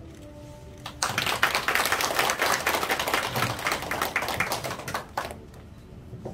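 Audience applauding, a dense patter of many hands that starts suddenly about a second in, lasts about four seconds and fades out.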